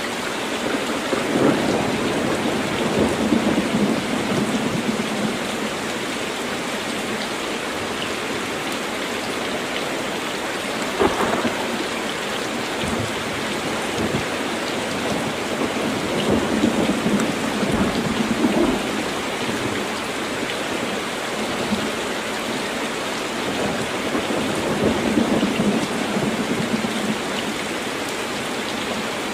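Heavy rain pouring steadily, with deep rolling thunder rumbling three times: near the start, a little past the middle and near the end. A single sharp thunder crack sounds just over a third of the way in.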